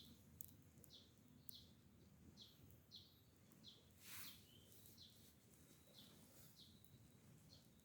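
Faint bird calls: a string of short, high, downward-sliding chirps, about two a second, over a quiet background with a few light clicks and a brief hiss about four seconds in.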